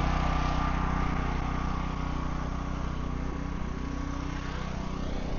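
An engine running steadily at idle, with a hiss over it that fades during the first couple of seconds.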